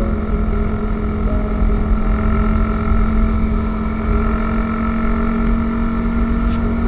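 Honda CB150R motorcycle on the move, its single-cylinder engine running steadily under a loud wind rumble on the microphone, with one brief click near the end.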